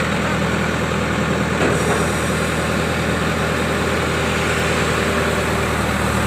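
Heavy diesel engine running steadily at an even speed: a low, unchanging drone.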